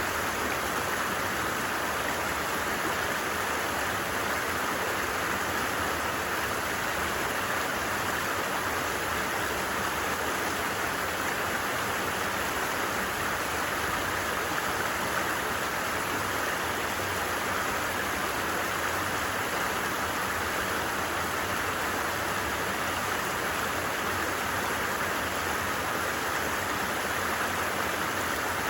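A stream's running water, a steady even rush with no breaks.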